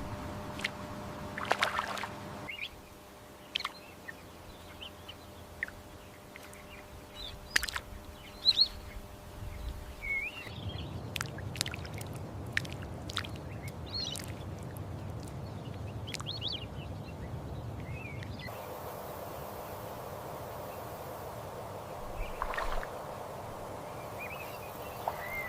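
Outdoor wetland ambience made of several spliced sections: a low, steady background of moving water, with scattered short, high bird chirps and many small clicks.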